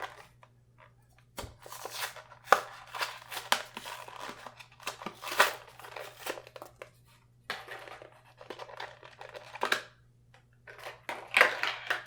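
Blister-pack packaging of a die-cast toy car being opened by hand: irregular crinkling and crackling of stiff plastic and tearing of card, coming in short bursts with pauses between.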